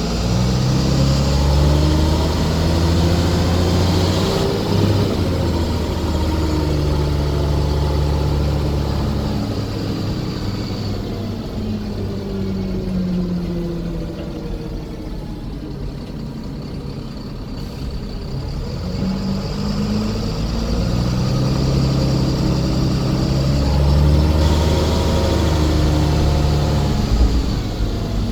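Scania coach's diesel engine running under load, pitch rising and falling as it accelerates; it eases off to a quieter stretch around the middle, then pulls strongly again toward the end.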